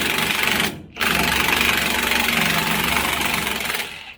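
Impact wrench hammering on the rear hub (spindle) nut to break it loose, in two runs: a short one ending under a second in, then a longer one of almost three seconds.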